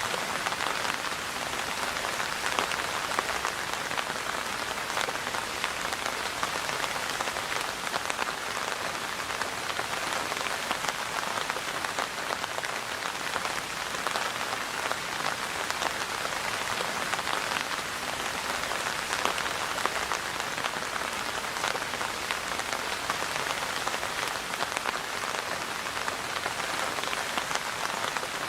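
Steady rain falling: an even hiss dense with small drop ticks.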